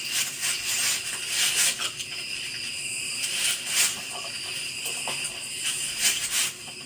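Night insects, crickets, trilling steadily at several high pitches, with irregular close scuffs and rustles over them.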